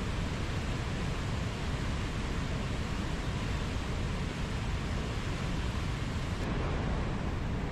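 Steady rush of falling and running water, an even unbroken roar with no birdsong standing out.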